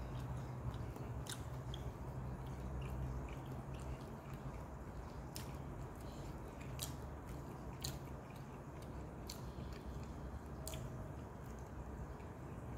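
A person chewing a mouthful of noodles and rice, with scattered small wet clicks and smacks, over a steady low hum.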